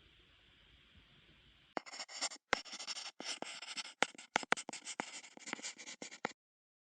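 Drawing strokes scratching on paper: quick, irregular scratchy strokes begin about two seconds in and cut off abruptly about a second before the end.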